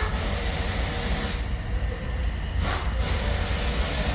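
Chevy Tahoe engine running steadily: a constant low rumble with a hiss over it.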